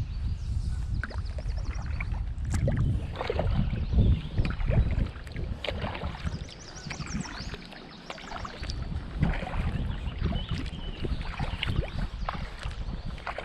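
Kayak paddling: irregular splashes of the paddle blades in the water, with wind rumbling on the microphone. A quick series of high chirps comes about six seconds in.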